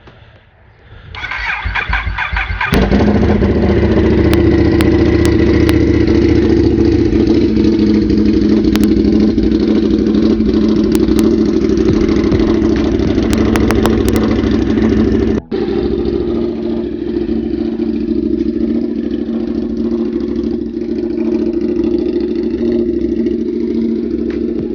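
Ducati 848 Evo's L-twin engine cranked on the starter for about a second and a half, catching and then running steadily at idle. The sound breaks off for an instant about fifteen seconds in.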